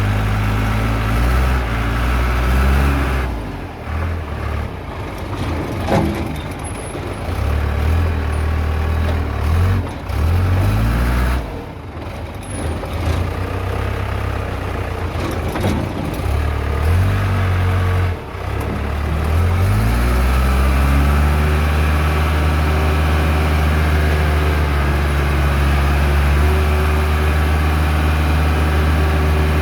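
Case 580D backhoe's diesel engine running under changing throttle and load, its note rising and falling repeatedly, then holding steady at a higher speed for the last several seconds.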